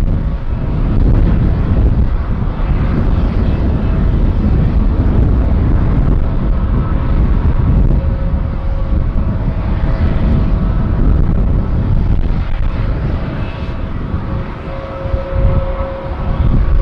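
Jet airliner on landing approach: a steady, loud engine rumble with faint thin whine tones over it.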